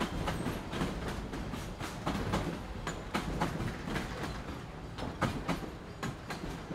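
A train passing: a steady low rumble with irregular clicking and clacking of wheels over the rail joints.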